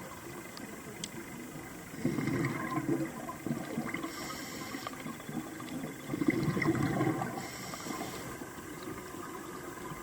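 Scuba diver breathing through a regulator underwater: exhaled bubbles burst out about two seconds in and again around six seconds, each followed by the short hiss of an inhale through the regulator.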